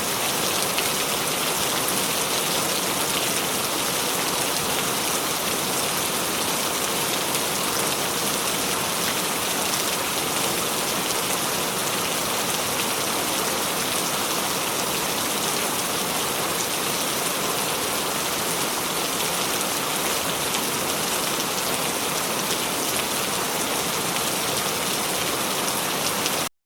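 Steady rain: an even hiss of rainfall with a fine patter of drops. It cuts off suddenly near the end.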